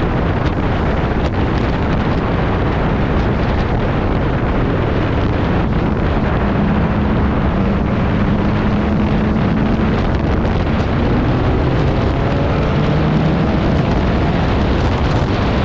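Heavy wind buffeting on the microphone over a car's engine and exhaust on the move. The engine's pitch rises in a couple of climbs about two-thirds of the way through as the car accelerates.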